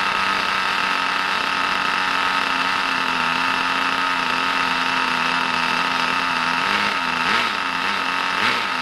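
Brand-new Kyosho GS11X nitro engine in an RC car idling steadily on its first run. Near the end, a few quick throttle blips make the pitch waver up and down.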